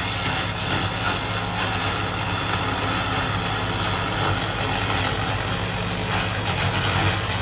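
SFX 2000 laser rust remover running: a steady low hum under a dense hiss.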